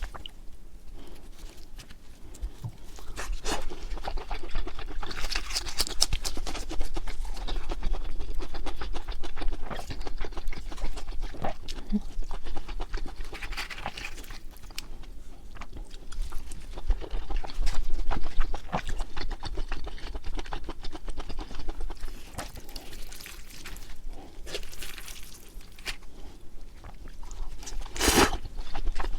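Close-miked eating sounds of someone chewing grilled pork intestines: many small wet mouth clicks and chewing noises that come in uneven swells, with a few sharper bites.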